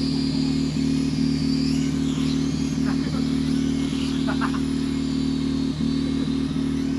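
A steady, unchanging engine-like drone, with a few faint high chirps and short ticks above it.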